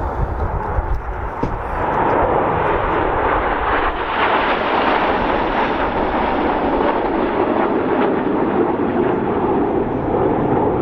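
Jet noise from the Red Arrows' BAE Hawk T1 jets flying their formation display. The roar swells about two seconds in and stays loud.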